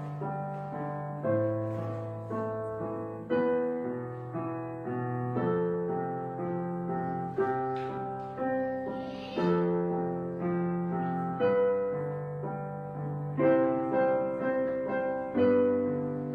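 Background music: a slow piano piece, chords struck about once a second and left to ring and fade.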